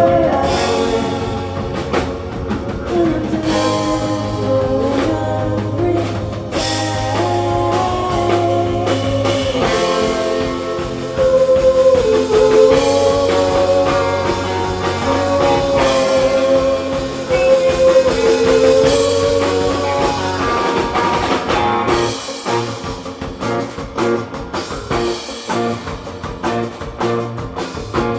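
A rock band playing live, with electric guitar and drums carrying a held, wavering melody line. About three quarters of the way through, the music drops back to a sparser, choppier passage.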